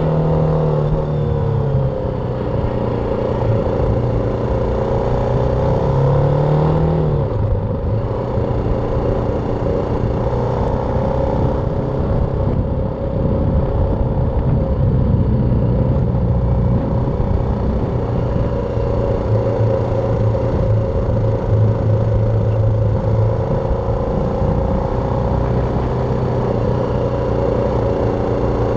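BMW G310R single-cylinder engine running under way, over a dense low rush of wind and road noise. The revs drop about two seconds in, climb and drop again around seven seconds in, then hold fairly steady.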